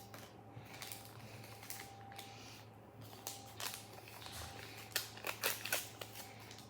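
Small plastic packaging bag being handled and torn open, crinkling in irregular bursts that grow busier about five seconds in.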